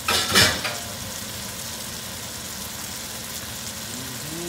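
Shrimp frying in a pan with a steady sizzle, and a loud clatter in the pan near the start.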